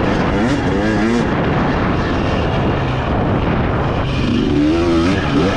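Dirt bike engine under race throttle, its pitch climbing and dropping as the rider opens and rolls off the throttle and shifts: two quick climbs at the start, a rougher steady stretch, then another climb near the end.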